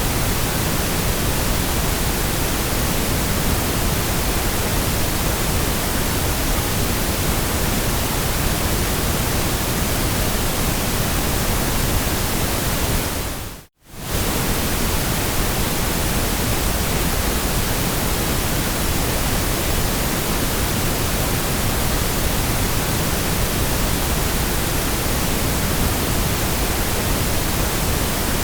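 Steady white noise: an even, static-like hiss spread across the whole range from deep to high. About halfway through it briefly dips to silence and comes straight back.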